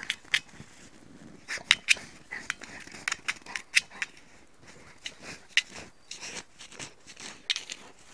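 A dog digging: its paws scratch and scrape at the ground in quick, irregular strokes.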